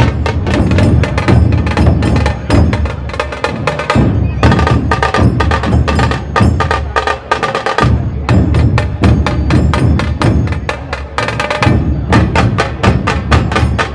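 Dhol tasha ensemble playing: stick-beaten barrel dhols give the deep beat while tasha drums crack sharply above them in a fast, dense rhythm.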